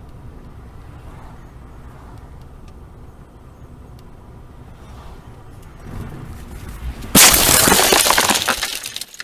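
Car collision: low road and engine rumble, then about seven seconds in a sudden loud crash of impact followed by about two seconds of clattering noise that dies away.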